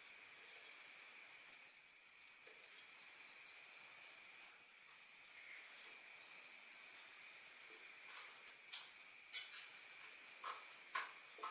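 Orange-headed thrush giving thin, very high 'ngecis' calls: three loud notes falling in pitch, each about a second long and about three seconds apart, alternating with softer short notes. A faint steady high hum runs beneath, and a few clicks come near the end.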